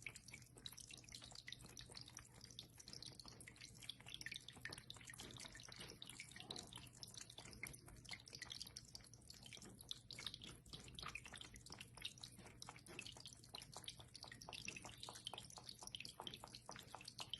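Near silence with faint, irregular small ticks, coming more often in the second half.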